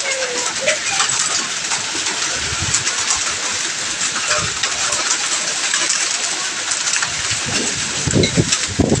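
Heavy rain with hail pelting down: a dense, steady hiss scattered with many sharp ticks of hailstones striking, with some low thuds near the end.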